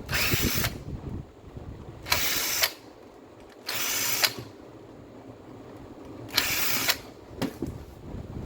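Makita M9510 angle grinder switched on in four short bursts of about half a second each.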